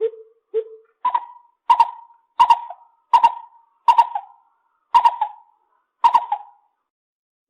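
Lesser coucal calling: two low hollow hoots, then a run of about eight higher hoots, evenly spaced at well over one a second, that stop shortly before the end.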